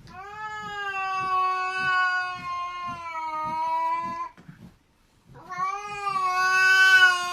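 A cat yowling: two long, drawn-out calls at a nearly steady pitch, the first lasting about four seconds and the second starting about a second after it ends.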